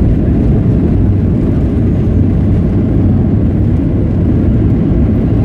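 Steady low rumble of a Boeing 737 heard from inside the passenger cabin: engine and airframe noise.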